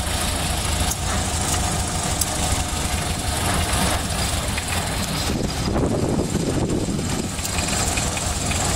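1931 Ford Model A's four-cylinder flathead engine running steadily as the car drives along, heard from inside the cabin.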